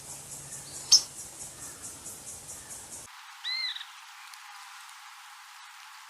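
Tropical forest ambience: a high insect trill pulsing about five times a second, a single sharp high bird chirp about a second in, and after an abrupt change of recording, a short bird call of two arched, rising-and-falling notes.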